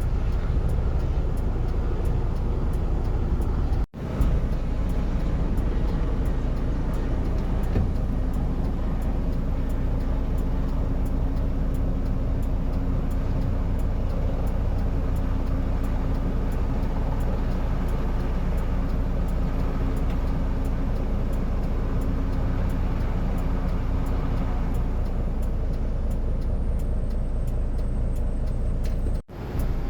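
Steady, loud engine rumble with a low roar of wind or ground noise, and a steady droning hum from about eight seconds in that fades out near the end; the sound cuts out for an instant twice.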